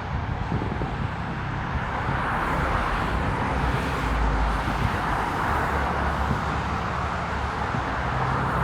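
Steady rushing road-traffic noise with a low rumble, swelling a little about two seconds in; no firework bangs are heard.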